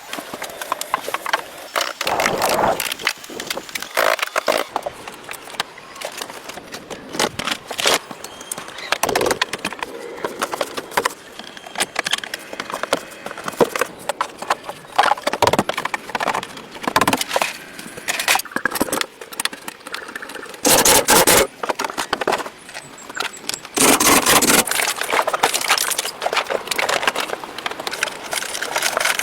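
Workshop work: a run of irregular knocks, clicks and scrapes, with two short, louder bursts of dense noise, one about two-thirds of the way through and another a few seconds later.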